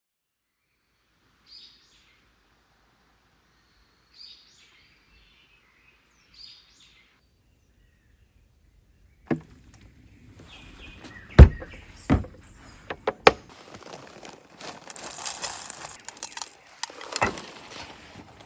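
Three short, faint bird calls a couple of seconds apart. About nine seconds in, louder outdoor ambience begins, with several sharp knocks (the loudest a little after that) and a rustling hiss.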